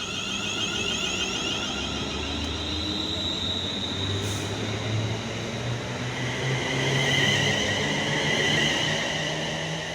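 Class 350 Desiro electric multiple unit pulling away: traction motor whine rising in pitch as it accelerates, over wheel and rail noise, loudest about seven seconds in.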